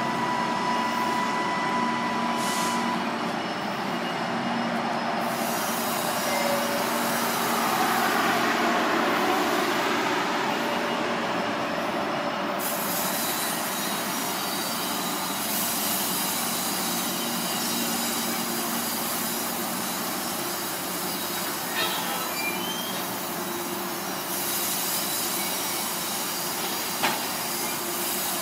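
GO Transit bilevel commuter coaches rolling past close by as the train pulls out: a steady rumble and hiss of steel wheels on rail. A brief wheel squeal comes in the second half, and a sharp click sounds near the end.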